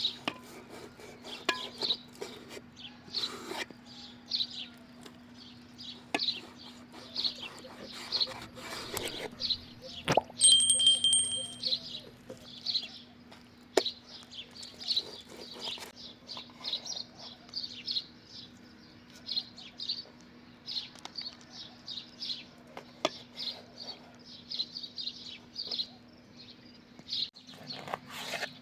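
Small birds chirping again and again, with scattered sharp clicks and knocks, a louder clatter about ten seconds in, and a steady low hum underneath.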